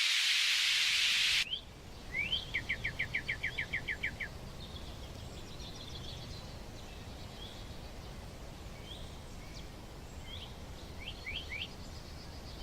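A loud hiss that cuts off abruptly about a second and a half in, then songbirds: a quick trill of about a dozen repeated chirps, followed by scattered single chirps over a low steady rumble.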